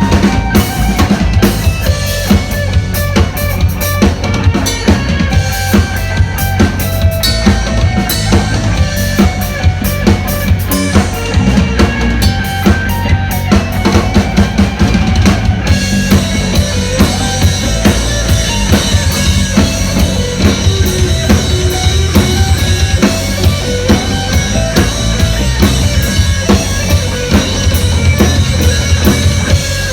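Live music with a steady drum-kit beat and heavy bass. About halfway through, a brighter, denser layer of high sound comes in over the beat.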